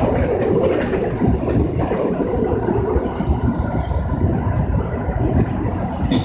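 Keikyu 1000-series electric train running along the track, heard from inside the car: a steady rumble of wheels on rails with scattered light clicks.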